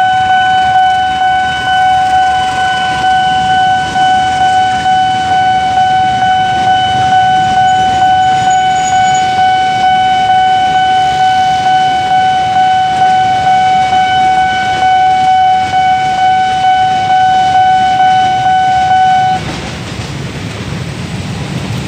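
Railway level-crossing warning alarm sounding one steady tone with overtones while a train rumbles past. The alarm cuts off suddenly about 19 seconds in, leaving the low rumble of road traffic.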